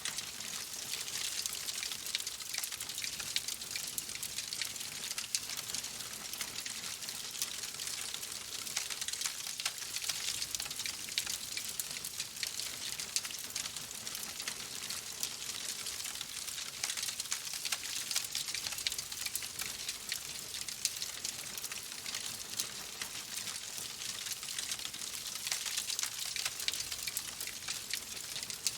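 Wood fire crackling in a fireplace: a dense, steady run of small crackles and pops over a soft hiss.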